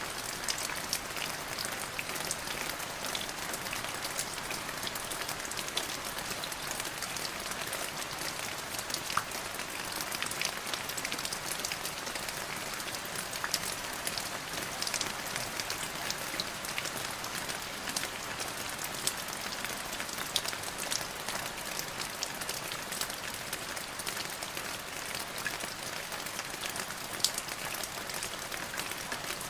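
Steady rain falling, a constant hiss dotted with the ticks of individual drops striking a surface.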